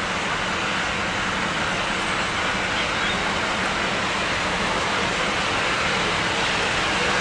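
Approaching train: a steady rushing noise that grows slowly louder.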